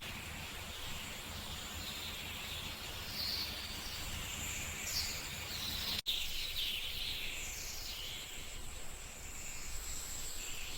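Faint outdoor ambience with small birds giving scattered short, high chirps.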